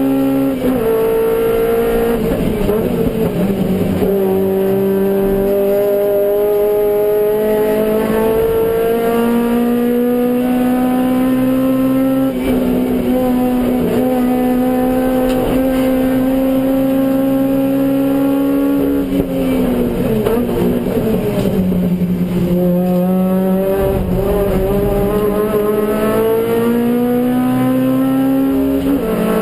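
Suzuki Swift GTi race car's G13B 1.3-litre four-cylinder engine running hard under racing load. The revs climb slowly through one long pull, and fall sharply about a second in, around 3 seconds in and again around 20 seconds in, as the car brakes and changes gear.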